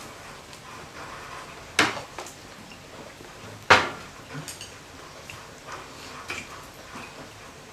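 Two sharp knocks about two seconds apart, among scattered lighter clicks and clatter.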